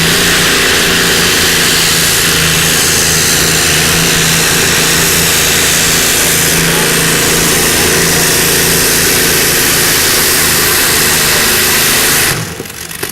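Modified pulling tractor's engines running loud and steady at full power during a pull, a dense roar with a steady low engine note. The sound drops away abruptly about twelve seconds in.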